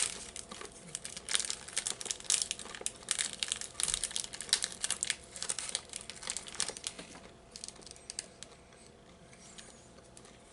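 Plastic snack wrapper crinkling, dense and irregular for about seven seconds, then dying down to a few faint crackles.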